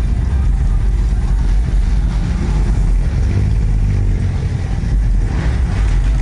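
Classic lowrider cars' engines running as the cars move in a line, making a steady low rumble.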